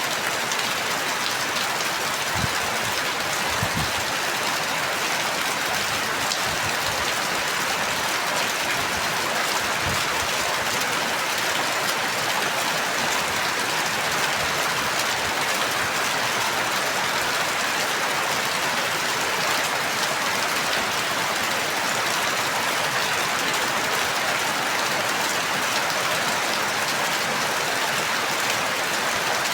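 Steady rain falling, an even patter with no let-up, and a few faint low knocks in the first several seconds.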